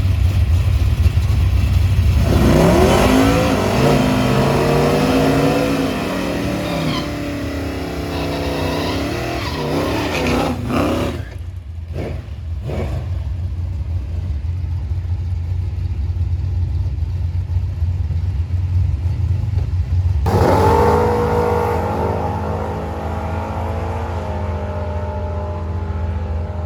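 Drag-racing car engines at the strip over a steady deep rumble. About two seconds in, an engine revs hard, its pitch climbing and dropping, and it cuts off sharply about eleven seconds in. Past the middle, another engine starts running and keeps going.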